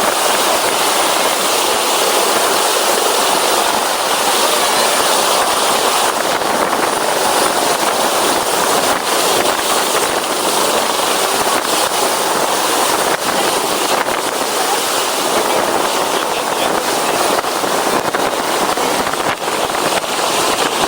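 Firefighting helicopter hovering low while drawing up water: a loud, steady rushing of rotor noise and downwash.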